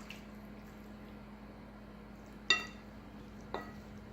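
A mixing bowl clinks as chicken wings are worked in flour: one sharp clink about two and a half seconds in that rings briefly, and a softer one about a second later, over a faint steady hum.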